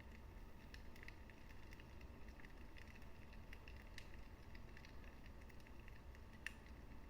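Wood fire in a fireplace crackling softly: faint, irregular small pops and snaps over a low steady rumble, with one sharper pop about six and a half seconds in.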